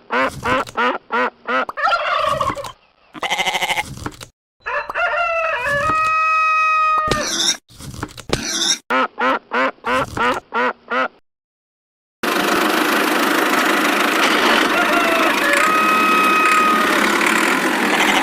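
Fowl calling: a run of short repeated clucks, with one long held call about six seconds in. About twelve seconds in it cuts off and gives way to a steady, noisy din.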